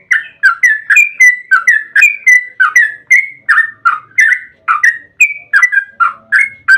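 Yellow-vented bulbul (trucukan) singing a long, fast run of short bubbly whistled notes, about three to four a second, without a break.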